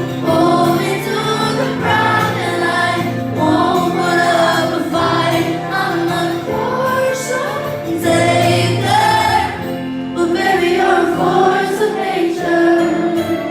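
Live pop song at a concert: a female singer's vocal over the band, with held bass notes underneath and other voices joining in.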